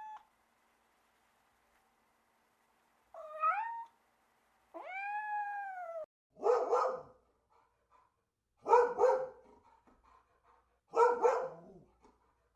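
A domestic cat meowing: a short rising meow, then a longer meow that rises and falls. These are followed by three shorter, harsher calls about two seconds apart.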